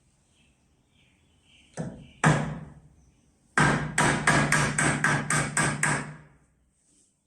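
Hammer blows on wood: two single strikes, then a quick run of about ten blows, roughly four a second, each with a low ring.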